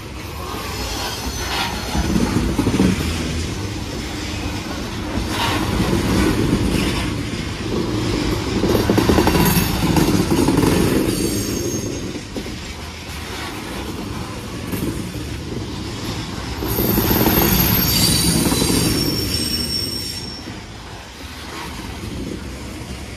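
Coal hopper cars of a freight train rolling past close by: a steady rumble of steel wheels on rail that swells and fades, with a few clanks from the trucks and couplers. High-pitched wheel squeal comes and goes, strongest about three-quarters of the way through.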